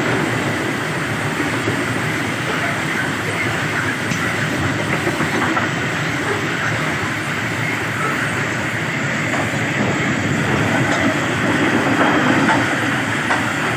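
Coal train wagons rolling past with a steady rumble of wheels on the rails and faint clickety-clack.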